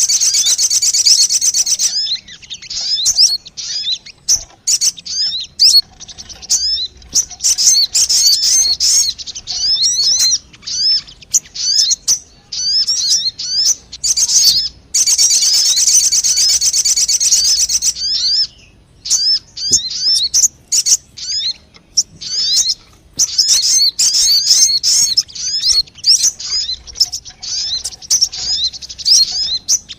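Sogon bird lure call: dense, rapid, high-pitched chattering and twittering in long runs, breaking off briefly now and then before starting again.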